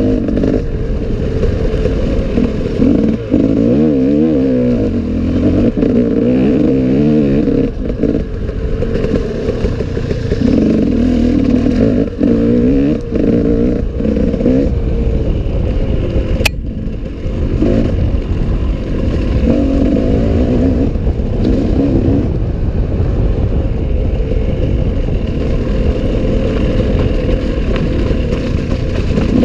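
Enduro dirt bike engine running continuously while being ridden, its revs rising and falling again and again, with one sharp click about halfway through.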